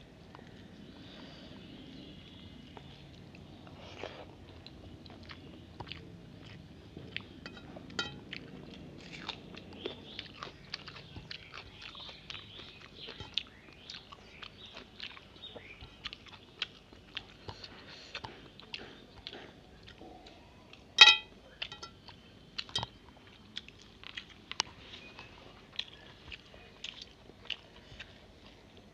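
Close-up eating sounds: wet chewing, smacking and mouth clicks as rice mixed with egg curry is eaten by hand. Fingers work the rice on a steel plate, and a sharp metallic clink rings out from the plate about two-thirds of the way through, the loudest sound.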